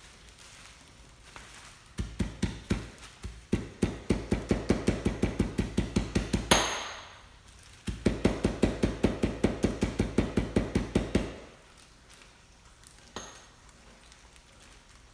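Rapid pounding blows on a kitchen work surface, about five a second, in two runs of a few seconds each, with a short scrape between them and one faint knock near the end.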